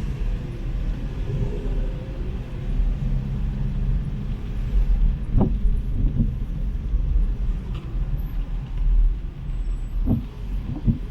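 Road traffic on a city street: a steady low rumble of cars running past, with a few short knocks about halfway through and again near the end.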